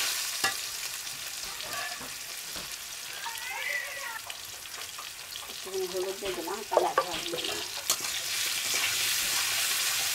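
Potato chunks sizzling as they fry in hot oil in a metal wok, stirred and scraped with a metal spatula, with a few sharp clicks of the spatula against the pan.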